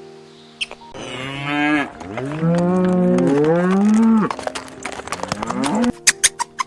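A cow mooing in a few long calls that rise and fall in pitch, over soft background music with held notes. Quick clicks start near the end.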